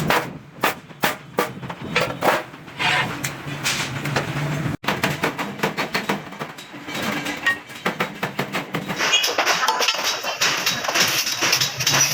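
Hammer blows on stainless steel sheet, a run of separate sharp metallic strikes. After a sudden cut the strikes come faster and closer together, and about nine seconds in a steady high hiss joins them.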